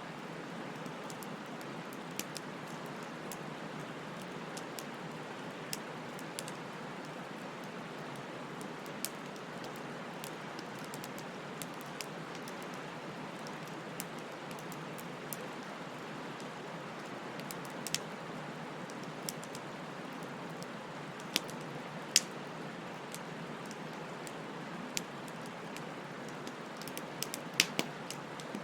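Wood fire burning: a steady rushing hiss of flames with scattered sharp crackles and pops of burning wood, a few louder snaps around two-thirds of the way in and a quick cluster near the end.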